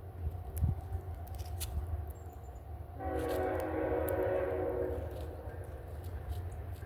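A horn sounds one held blast of several stacked tones starting suddenly about three seconds in and fading out over the next two to three seconds, over a steady low rumble.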